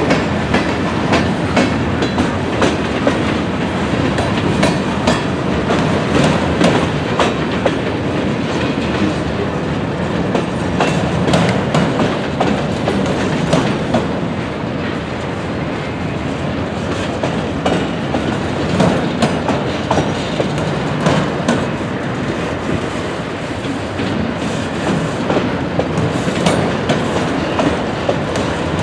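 Freight train cars (covered hoppers, then autoracks) rolling past: steel wheels clicking over rail joints over a steady rumble.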